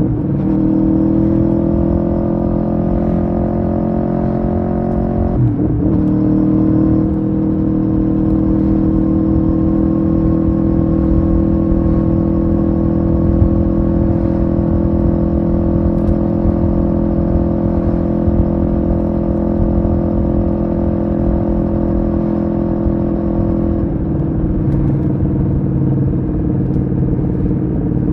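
Aprilia Tuono V4R's V4 engine under way, heard from the bike with wind rumble. It shifts up twice in the first six seconds, the pitch dropping sharply each time. It then holds a steady engine speed, and the note drops and softens near the end as the throttle eases.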